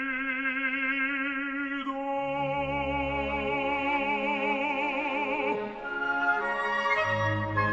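An opera singer holds a long note with wide vibrato over an orchestra; it ends about five and a half seconds in, and the orchestra carries on alone.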